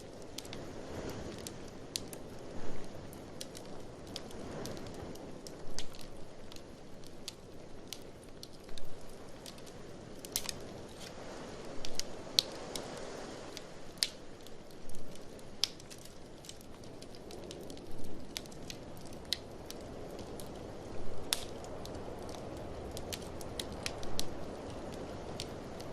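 Wood fire in a fireplace crackling, with irregular sharp pops, a few louder than the rest. Under it runs a steady rush of blizzard wind that slowly swells and eases.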